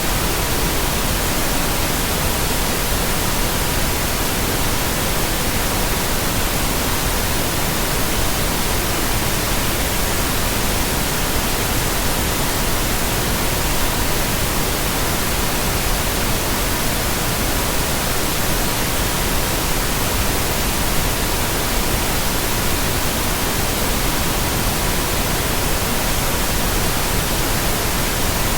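Steady pink noise hissing evenly, unchanging throughout, with a faint steady 963 Hz tone running under it.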